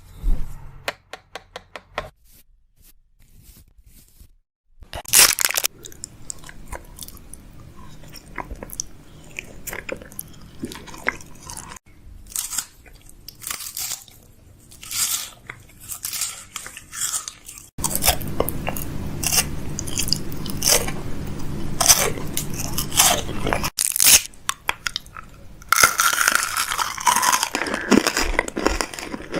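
Close-miked ASMR mouth sounds: wet clicks and crackles in bursts, with a short lull a few seconds in and a denser stretch in the second half.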